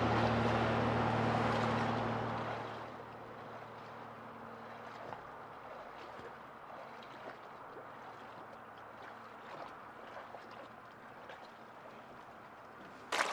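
Lake water sloshing and gurgling around a person floating beside a capsized kayak, fairly loud for the first two or three seconds, then dropping to faint lapping with small drips and trickles. A sudden splash comes right at the end.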